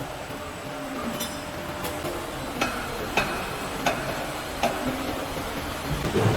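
Refrigerator mullion roll forming machine running: a steady mechanical noise with a series of sharp metallic clicks about two-thirds of a second apart through the middle.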